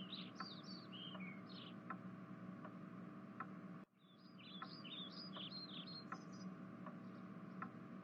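Faint bird chirping: two runs of quick, high chirps, with a short break just before the second run. Soft ticks sound about every three quarters of a second over a steady low hum.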